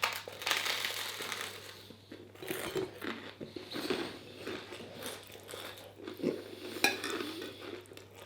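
Eating at the table: cutlery clinking on a plate and chewing, with a few sharp clicks, the sharpest about seven seconds in.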